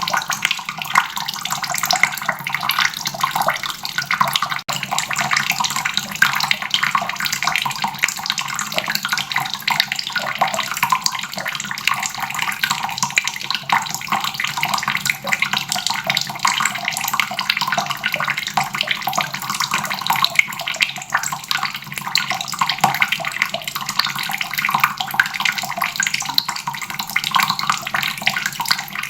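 Water faucet running steadily, a continuous stream splashing into a basin.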